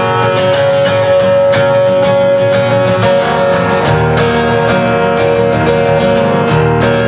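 Instrumental break of a song: a guitar strummed in a steady rhythm, with held notes sounding underneath.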